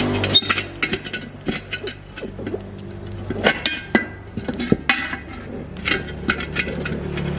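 Metal tools and parts clinking and tapping in quick, irregular strikes, over a steady low mechanical hum.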